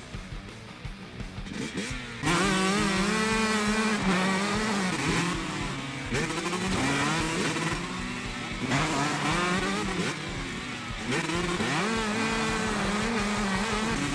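Motocross bike engines revving hard, their pitch rising and falling over and over as the bikes accelerate and shift; it turns loud about two seconds in.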